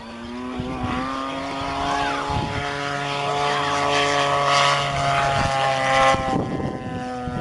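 Radio-controlled model airplane engine and propeller running at a steady pitch, growing louder as the plane comes closer. A second, lower engine note joins about two and a half seconds in and drops away about six seconds in.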